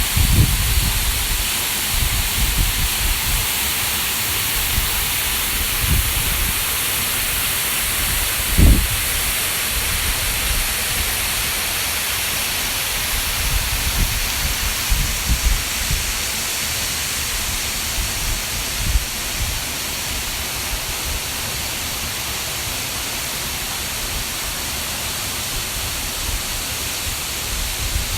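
Waterfall rushing, a steady hiss of falling water. Short low bumps on the microphone come and go, the loudest about nine seconds in.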